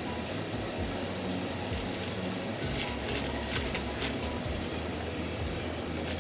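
A steady low machine hum, with a few light clicks and rustles about three to four seconds in.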